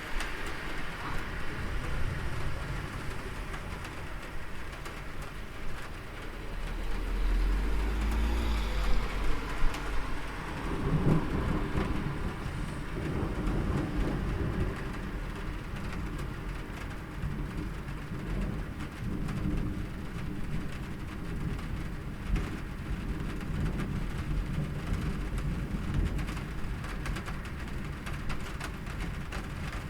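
Steady rain falling, with a low rumble of thunder that builds about seven seconds in, is loudest a couple of seconds later, then fades back under the rain.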